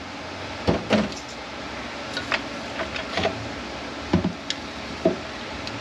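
Metal parts of a Mercedes 722.9 automatic transmission being handled during teardown, giving about half a dozen scattered light clicks and knocks over a steady background hiss.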